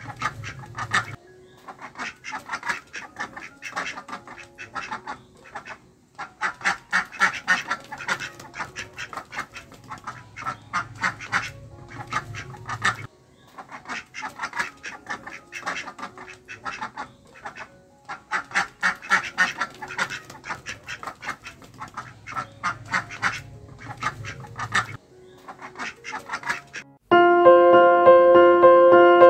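Ducks quacking in rapid runs lasting several seconds, with short breaks between the runs. Piano music comes in near the end.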